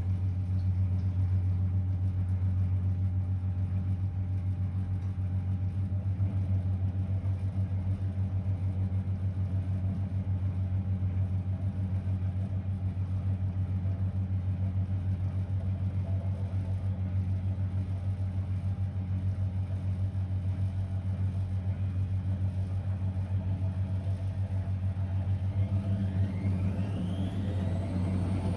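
Blomberg WA391 washing machine running with a steady low hum. Near the end a rising motor whine begins as the drum speeds up.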